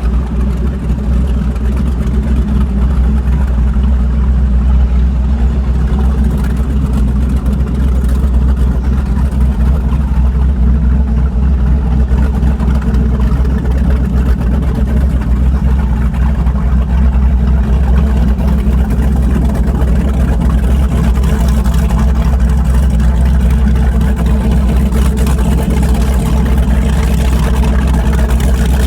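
Boat engine running steadily with a low, continuous rumble.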